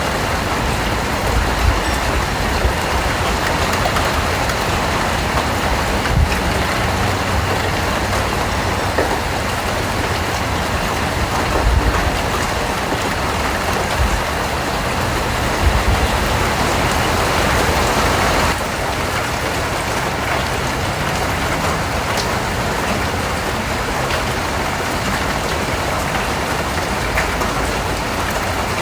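Steady rain, a dense hiss with many single drops striking a surface. The rain turns a little quieter about two-thirds of the way through.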